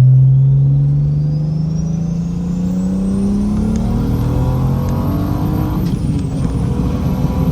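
BMW N54 straight-six with a big single Precision 6266 turbo and straight-piped exhaust at wide-open throttle on a 26 psi pull, the engine note climbing steadily with a high turbo whine rising over it. About six seconds in the revs drop for a gear change and the whine builds again.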